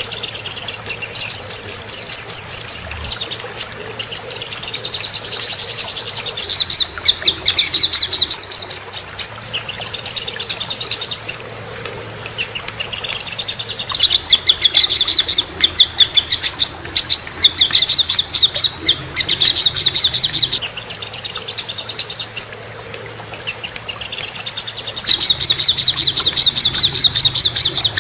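Songbird song from a masteran tutor recording: fast, high-pitched chirping trills in long phrases, broken by two short pauses about twelve and twenty-three seconds in.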